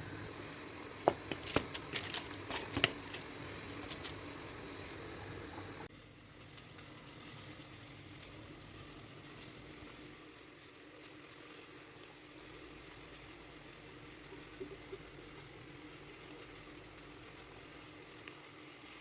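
Chicken sizzling as it fries in a pan, a steady hiss throughout. Several sharp clicks, like utensil knocks against the pan, come in the first few seconds, and the sizzle drops a little partway through.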